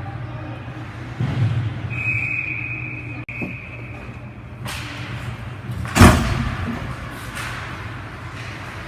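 Ice hockey arena sound: a steady low hum, a single high whistle-like tone held for about two and a half seconds starting about two seconds in, then a sharp bang about six seconds in, typical of a puck or stick hitting the boards.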